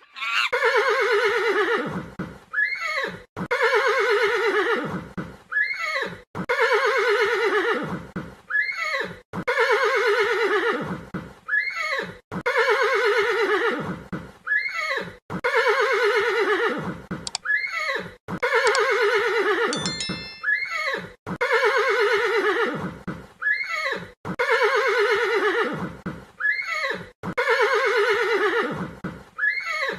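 A horse whinnying: the same long, quavering whinny with a falling pitch, ending in a short rising-and-falling call, repeated about every three seconds, ten times over.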